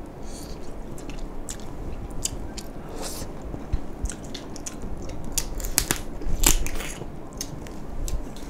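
Close-miked biting and chewing of mala-sauced crayfish, with sharp crunches and cracks of shell coming irregularly over a steady wet chewing sound. The loudest crunches come about two-thirds of the way through.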